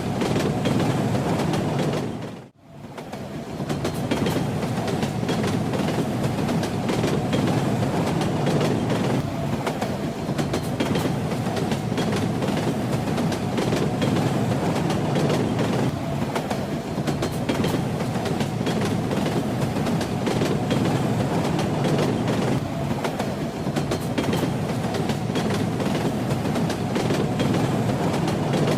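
Train running along the track: a steady rumble with the clickety-clack of the wheels over the rails. About two and a half seconds in, the sound drops out briefly and fades back in over about a second.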